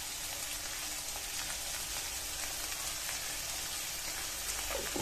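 Tomatoes, chillies and fried salted peda fish sizzling steadily in oil in a wok on a gas stove.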